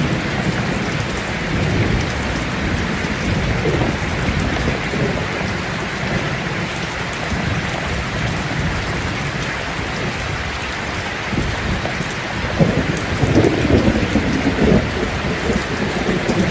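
Steady heavy rain with rumbling thunder; the thunder swells louder about three-quarters of the way through.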